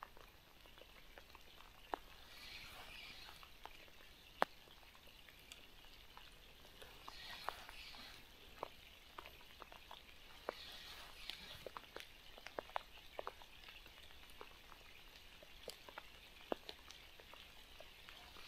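Faint rain patter, with scattered sharp ticks of single drops striking close by and soft swells of hiss every few seconds.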